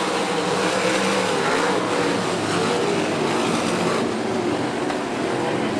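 A pack of winged sprint cars racing at full throttle on the green-flag restart, with a steady, dense engine noise.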